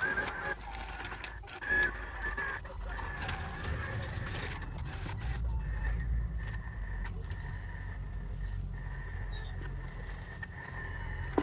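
Radio-controlled construction machine running: a steady electric-motor and gear whine over a low rumble that grows stronger a few seconds in, with a few sharp mechanical clicks.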